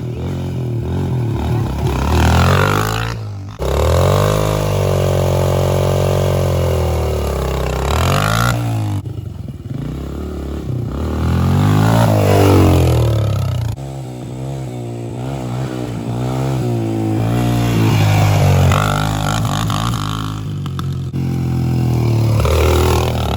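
Dirt bike engine revving up and falling back over and over as the bike rides over a run of dirt whoops. The sound breaks off abruptly a few times.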